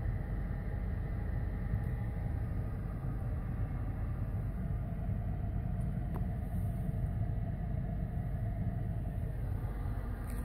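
Dodge Charger R/T's 5.7-litre HEMI V8 idling in Park, a steady low rumble heard from inside the cabin.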